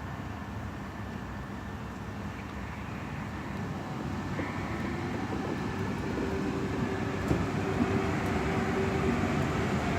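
Electric train running and getting steadily louder, its traction motors adding a steady hum about halfway in, a sound likened to a Helsinki Metro train.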